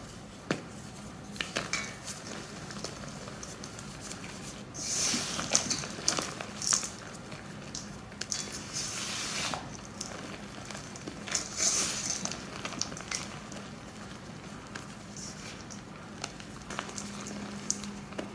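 Blocks of dyed gym chalk being crushed and crumbled by hand, making flaky, crunchy crackles. The crackling comes in scattered bits, with louder bursts about five seconds in and again a little past halfway.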